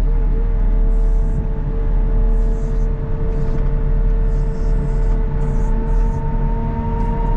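CAT 926M wheel loader running steadily: a low diesel rumble with a constant whine held over it.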